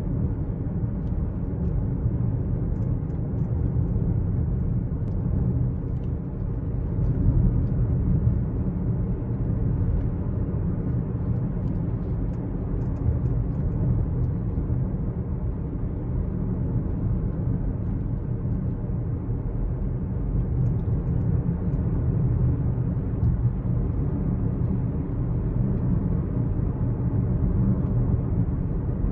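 Steady low rumble from a 12th-generation Toyota Corolla Altis hybrid, with faint scattered small clicks, recorded to capture an abnormal noise heard when its steering wheel is turned.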